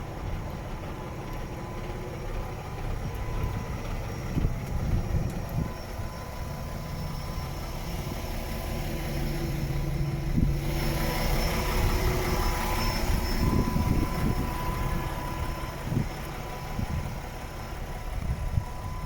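DAF XF 480 truck's 12.9-litre PACCAR MX-13 six-cylinder diesel engine running at idle. A broad hiss joins it about halfway through and then fades away.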